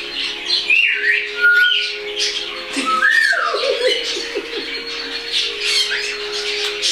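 Cockatiels squawking over and over in harsh, scratchy calls, mixed with a few whistled calls that slide up and down in pitch in the first half, and a quick run of falling chirps about three and a half seconds in.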